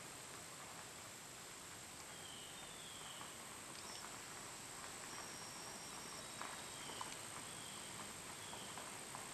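Quiet rural outdoor ambience: a steady high insect drone, with a few short chirps and some faint taps in the second half.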